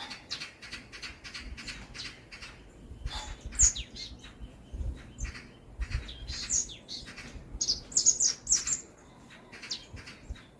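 Songbirds chirping in a forest: a quick, dense run of short high notes, with several louder down-sweeping calls from about the middle on.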